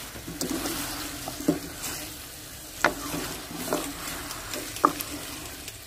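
Chicken and cubed potatoes sizzling in oil and masala in a steel karahi while a wooden spatula stirs them, at the stage where the potatoes are being fried. A few sharp knocks of the spatula against the pan stand out over the steady sizzle.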